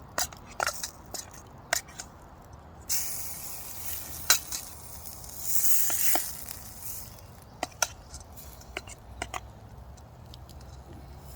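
Steak and potatoes frying in a pan over a campfire, with a utensil clicking and scraping against the pan. As the steak is pushed down onto the bottom of the pan, a burst of sizzling swells about three seconds in and dies back a few seconds later.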